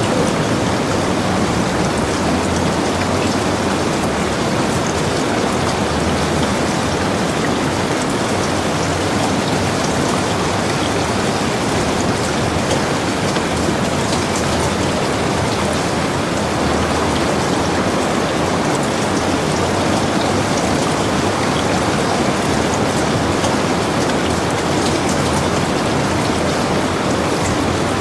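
Heavy rain falling steadily: a dense, even hiss with many small, sharp drop hits scattered through it.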